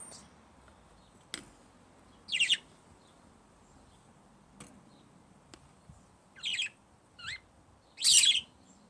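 Pet parrots chirping and squawking: four short, scratchy high calls, the loudest near the end, with a few faint clicks between them.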